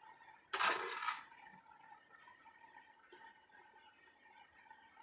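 Metal forge tools clanking at a blacksmith's forge: one sharp clank about half a second in that fades within about half a second, then a few faint clinks.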